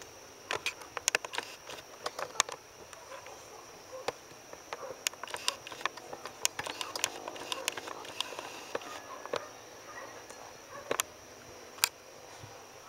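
Scattered raindrops ticking and tapping irregularly on hard surfaces, some hits sharp and loud, over a steady faint high-pitched tone; no thunder.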